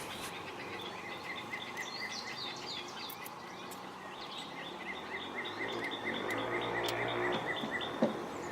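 A bird chirping in fast, even series of short notes, about seven a second, over a faint steady background hiss.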